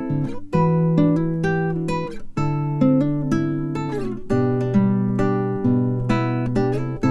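Background music: an acoustic guitar playing a slow run of plucked notes and chords, each ringing and fading before the next.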